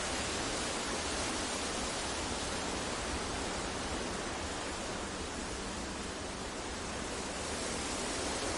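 Steady synthetic masking noise for sleep, a deep even hiss spread across low and high pitches, easing slightly about halfway through and swelling back.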